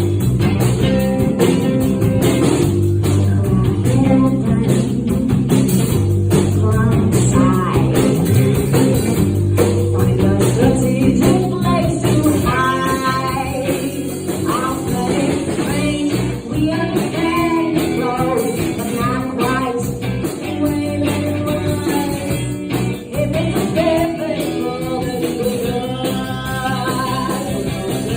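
Rock band playing live: electric guitar and bass over a steady beat, with a voice singing from about twelve seconds in.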